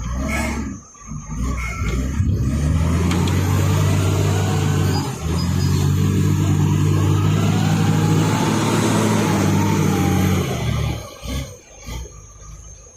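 A diesel truck engine running steadily at raised revs for about nine seconds, with a brief dip about five seconds in, then dropping away near the end.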